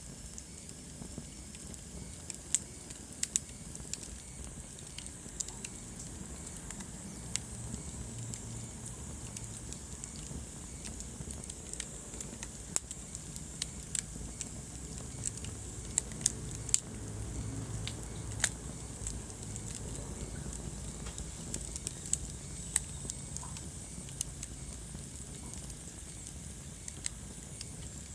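Wood fire burning in a fireplace, crackling with irregular sharp pops and snaps, a few of them louder, over a steady low sound of the flames and a faint hiss.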